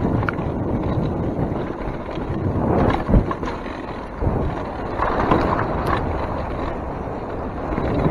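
Mountain bike rolling over a wet trail: steady tyre and chassis noise with wind on the microphone, and a few sharp thumps from bumps, the strongest about three seconds in.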